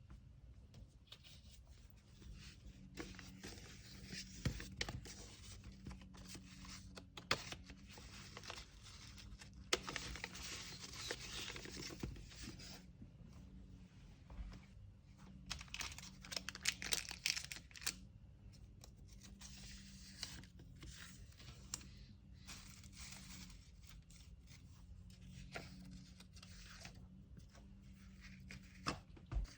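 Packing materials being handled: kraft paper and tape tearing and crinkling in several bursts, with small clicks and taps between them. A faint steady hum runs underneath.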